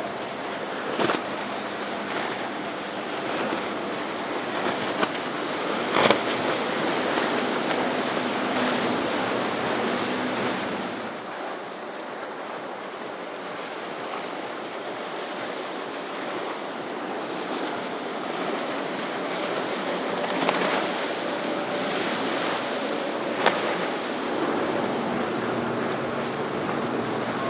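Wind and wave wash in an inlet, with the faint hum of boat engines running through and a few sharp splashes or slaps, the loudest about six seconds in.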